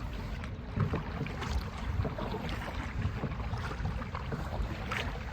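Wind buffeting the microphone on a kayak out on the water, a gusty rumble with scattered small splashes and knocks over it.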